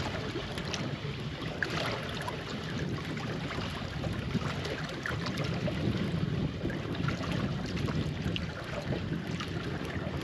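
Steady wash of sea water and wind around a small anchored fishing boat, with scattered light ticks.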